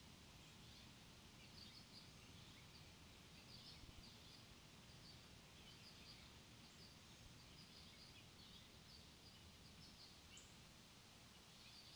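Faint small-bird chirps: many short high calls scattered irregularly over a low, steady outdoor rumble.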